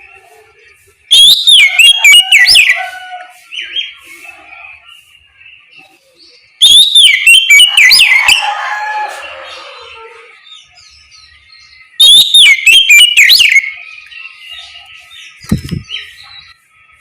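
Oriental magpie-robin (kacer) singing loud, clear whistled song phrases in three bursts about five seconds apart, with softer twittering between them. A short dull thump comes near the end.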